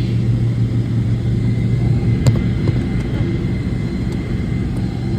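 Steady low hum of a Boeing 777-300ER's GE90 engines at taxi power, heard inside the cabin, with one sharp click about two seconds in.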